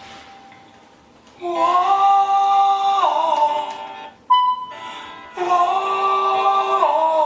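Music with long held sung notes that step down in pitch, played through a car stereo over Bluetooth. It starts about a second and a half in, breaks off briefly with a short tone near the middle, then resumes.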